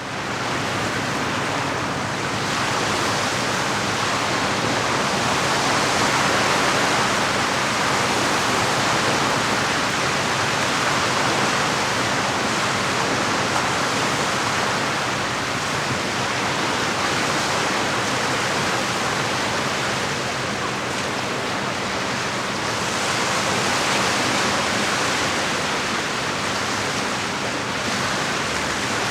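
Steady rushing of water, an even hiss that swells a little now and then without distinct breaks.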